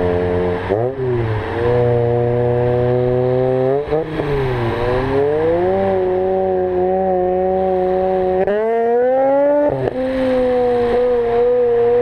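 Mazda rotary engine running at high revs. The pitch holds fairly level, dips and climbs back briefly about a second in and again around four seconds in, rises near nine seconds, then drops sharply and settles.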